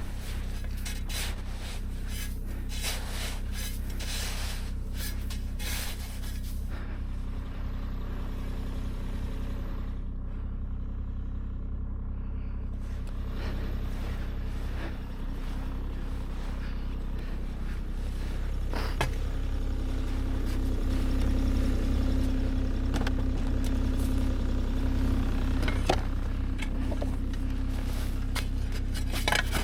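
An engine running steadily with a low hum that grows louder past the middle. Scraping and rubbing noises come over it in the first few seconds, and a few sharp clicks come later.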